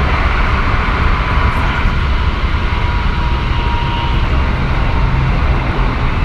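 Hokuso Railway 1000 series electric train running, heard from inside the car: a steady rumble of wheels on rail with a faint tone that drifts slightly down in pitch.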